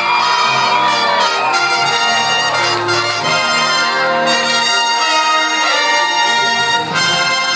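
Recorded orchestral music led by brass, with trumpets and trombones holding out loud sustained chords.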